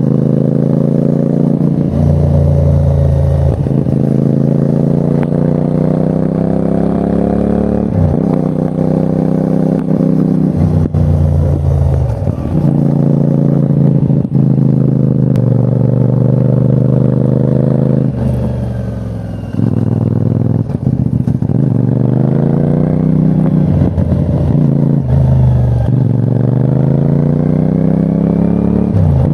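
CFMOTO 450NK motorcycle's parallel-twin engine under way, accelerating hard. Its pitch climbs and then drops sharply, over and over, as it shifts up through the gears. About two-thirds through it eases off and slows before pulling up through the gears again.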